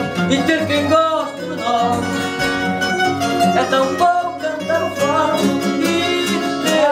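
Fado accompaniment on plucked guitars, the Portuguese guitar's bright melody over the classical guitar's chords, playing an instrumental passage after the last sung line.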